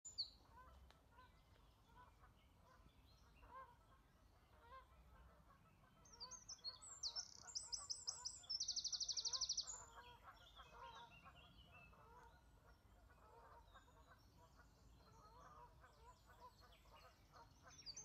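Wild birds calling: scattered short, faint calls throughout, and midway a run of high chirps that breaks into a fast, even high trill, the loudest sound.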